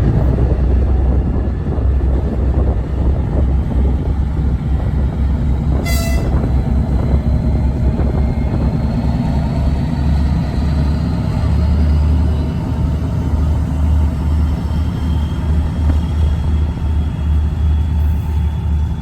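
Diesel locomotive hauling a long train of wagons past, a steady heavy rumble of engine and wheels, with one short horn blast about six seconds in.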